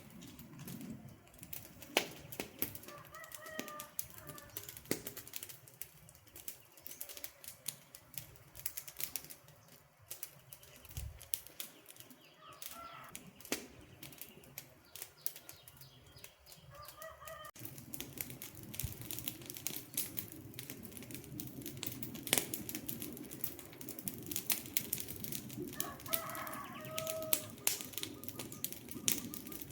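Wood campfire crackling and popping with irregular sharp snaps over a steady hiss. A bird gives short calls four times, and the low hiss of the fire grows louder about halfway through.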